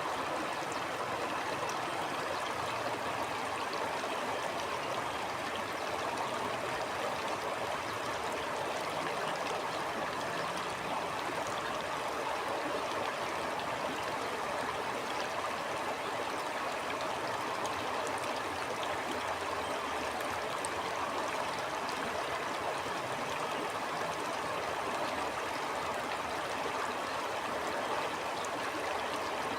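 A stream flowing steadily: an even, unbroken rush of water.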